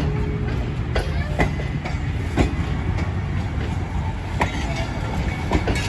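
Railway train rolling past: a steady low rumble with irregular sharp clanks of wheels over the rail joints.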